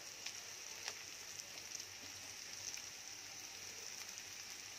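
Chopped onions frying in oil in a pan, a faint steady sizzle with a few small crackles.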